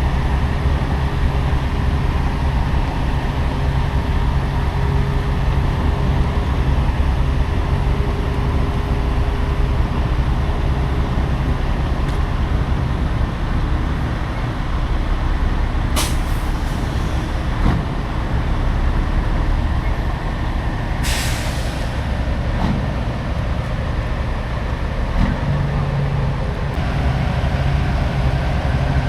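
Semi truck's diesel engine running steadily with a deep rumble. About two-thirds of the way through comes a short hiss of air, typical of a truck's air brakes, and a little before it a single sharp click.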